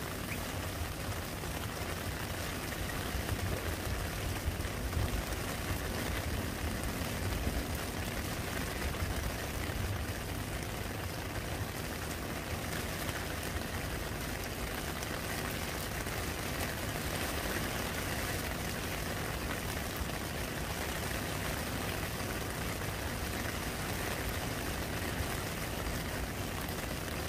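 Rain falling on a muddy puddle, a steady even hiss of drops hitting the water, over a low rumble that is strongest in roughly the first ten seconds.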